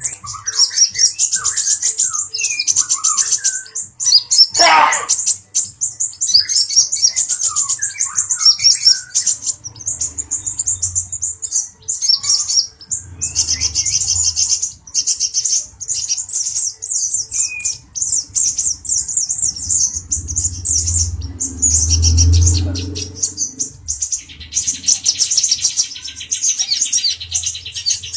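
Male brown-throated sunbird singing: a fast, high, continuous twittering of rapid trills and chips. A few low thumps are heard in the second half.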